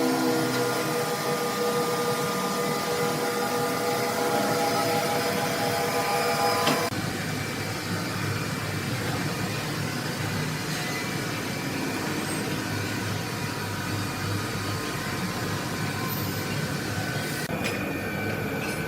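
Sawmill machinery running steadily, a hum of several steady tones over mechanical noise; about seven seconds in it changes abruptly to a rougher, noisier machine sound.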